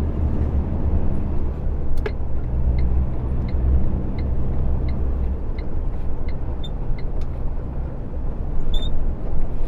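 Truck's diesel engine droning steadily from inside the cab as it drives. A sharp click about two seconds in, then the turn indicator ticking evenly, a little more than once a second, for about four seconds.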